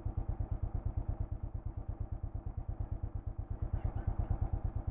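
Royal Enfield Thunderbird 500's single-cylinder engine idling with an even, steady beat as the bike is being parked.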